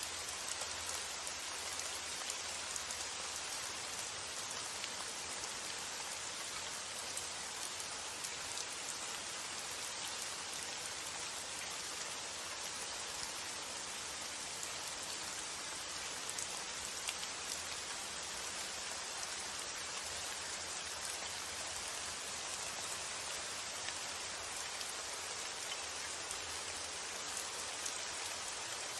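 Steady rainfall with many small drops pattering on a surface, a constant hiss with faint individual drop ticks and no change in intensity.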